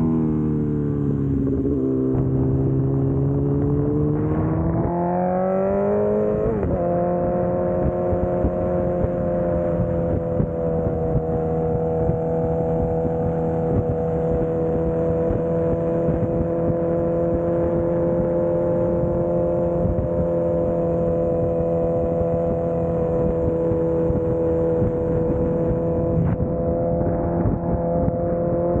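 Motorcycle engine under way: its pitch dips, climbs as it accelerates, drops sharply with an upshift about six seconds in, then holds steady at cruising speed. Wind noise runs underneath.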